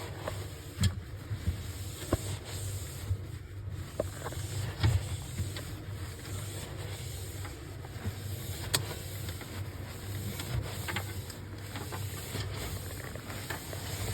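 Scattered light knocks and clicks of objects being handled, several a few seconds apart, over a steady low hum.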